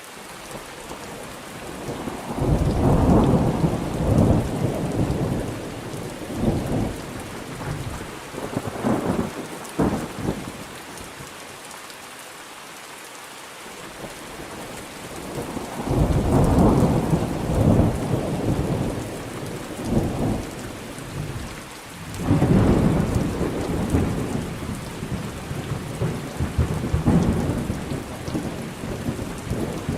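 Thunderstorm: steady rain with long rolls of thunder, the first starting a couple of seconds in, another near the middle and a third soon after, with a lull of rain alone between the first and second.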